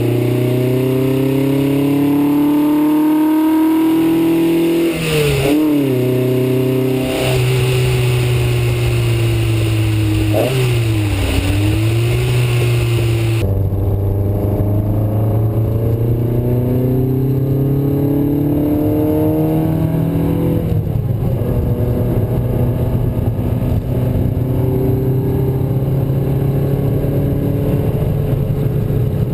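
Matra Murena 2.2's four-cylinder engine, fitted with a Piper 3777 fast-road camshaft, pulling hard under acceleration: its note climbs through the revs and drops back at several gear changes, then settles into a steadier run.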